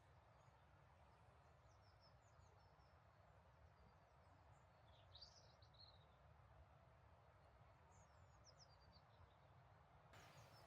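Near silence: faint outdoor ambience with a few faint bird chirps, about two seconds in, again around five seconds and once more near eight to nine seconds.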